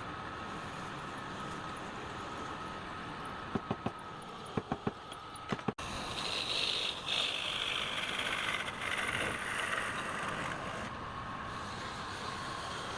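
Wood lathe running with a steady hum. About halfway through comes a quick run of sharp clicks, and after an abrupt break a turning tool scrapes into the spinning wood with a hissing cut for several seconds.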